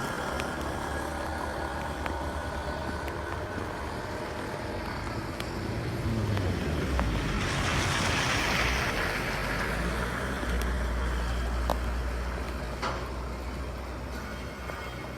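Road traffic: a steady low engine rumble, with a motor vehicle passing close by and its hiss swelling to a peak about eight seconds in, then fading.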